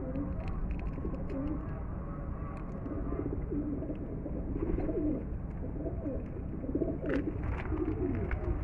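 Several domestic pigeons cooing, their low rolling coos overlapping continuously, over a steady low background rumble.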